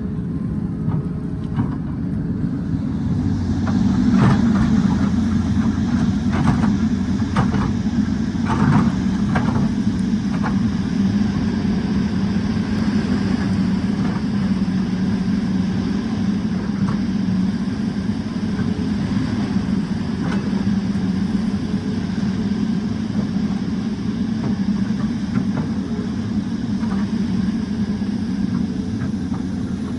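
Excavator's diesel engine running steadily at working speed, with a run of short clanks and knocks about four to ten seconds in.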